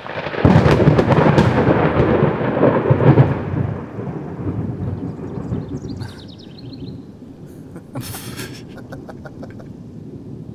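Thunder rumbling: a long roll that swells about half a second in, is loudest for about three seconds, then dies away into a lower, steady rumble.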